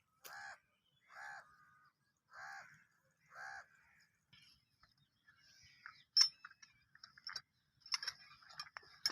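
A crow cawing four times, about a second apart, followed by scattered small bird chirps and sharp clicks.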